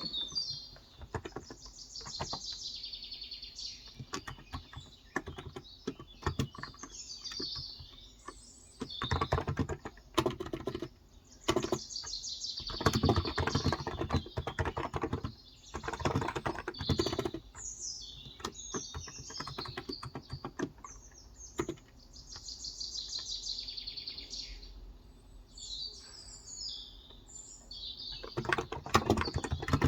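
Typing on a Cox Endeavor 35g contactless (electrostatic capacitive) tenkeyless keyboard in several bursts of rapid key presses, with pauses between. Birds chirp and sing throughout.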